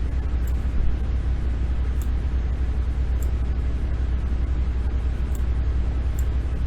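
Steady low rumble of microphone and room noise, with faint, irregular computer mouse clicks about once a second.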